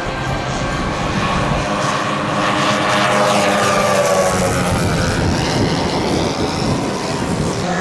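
Giant-scale radio-controlled model airplane flying past, its engine and propeller running steadily. The pitch of the note slides as the plane goes by.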